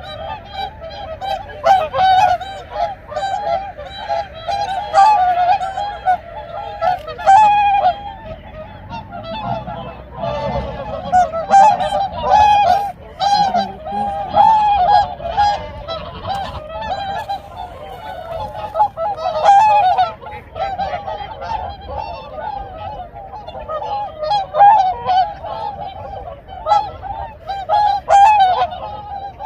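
A flock of swans honking: many overlapping loud, nasal calls without a pause, the chorus of a wintering swan flock.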